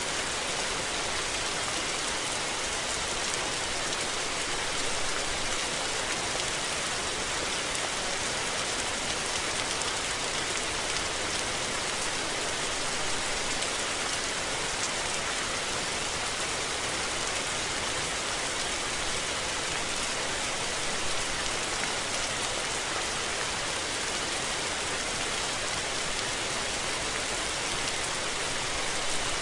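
Steady rain falling, an even hiss with faint individual drop ticks and no thunder.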